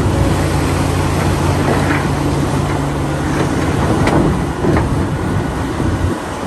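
Heavy diesel machinery, an excavator, running: a steady low engine hum under a dense rumble, with a few sharp clanks. The hum cuts off about six seconds in.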